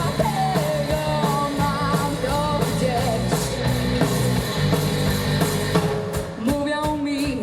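Live rock band playing a song, drums and amplified guitars under a sung melody line; about six seconds in the heavy low accompaniment drops away, leaving a thinner sound with a held note.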